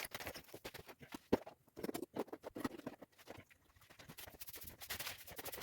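Steel rebar being tied by hand with wire: irregular light clicks, taps and scrapes of metal.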